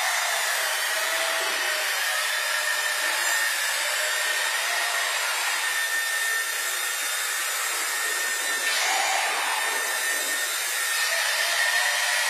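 Small electric RC helicopter (Blue Fly HP 100 flybarless) in flight: a steady motor whine and rotor whoosh, with the pitch wavering slightly as the rotor speed changes.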